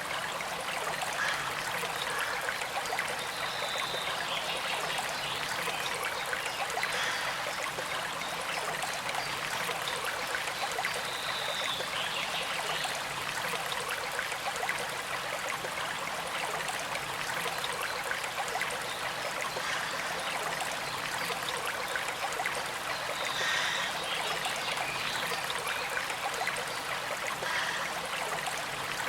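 Small creek flowing steadily, a continuous gentle trickle of water.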